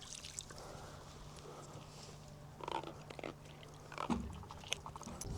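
Faint handling noises from a small blue catfish being held and unhooked in a boat: scattered light clicks and a few brief squeaks, over a low steady hum.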